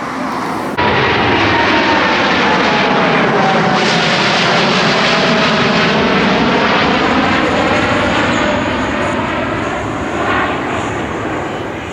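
Widebody jet airliner climbing out low overhead after takeoff, its engines loud, with a whining tone that falls slowly in pitch as it passes. The sound comes in suddenly about a second in and eases off near the end.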